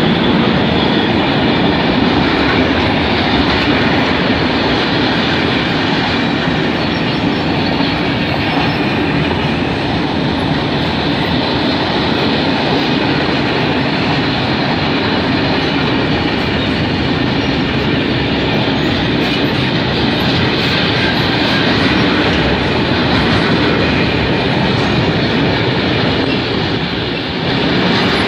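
Freight train of sliding-wall covered wagons rolling past close by, a loud, steady noise of steel wheels running on the rails.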